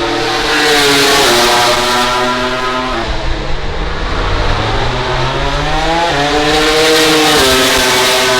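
MotoGP race motorcycle engine at full throttle, loud, climbing in pitch and then dropping sharply at each upshift, once about a second in and again near the end.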